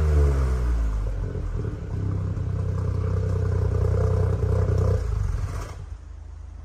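Ford Focus Mk4 1.5T's turbocharged three-cylinder engine, through an aftermarket stainless-steel valved exhaust, dropping back from a rev and then idling steadily. The engine sound fades and stops about six seconds in.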